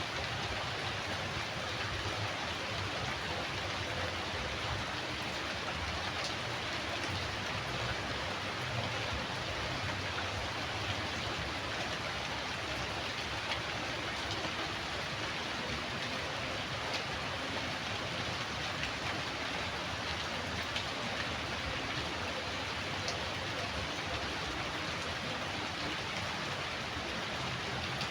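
Steady rainfall, an even hiss of rain with a few faint individual drop ticks.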